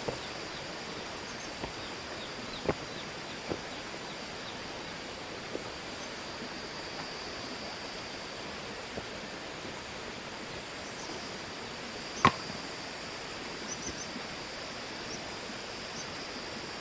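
Steady outdoor background hiss with a thin, high, even tone over it, broken by a few light clicks and taps and one sharper click about twelve seconds in.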